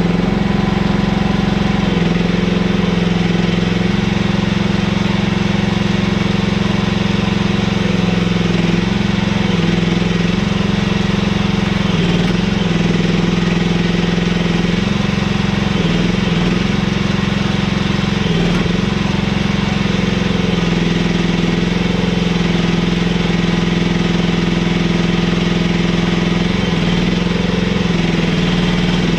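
Mini excavator's diesel engine running steadily under work. Its pitch dips and recovers several times as the hydraulics take load while digging.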